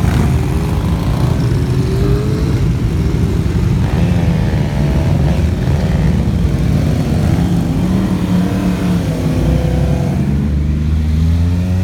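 A continuous stream of motorcycles passing one after another, several engines heard at once, each note rising and falling as a bike goes by.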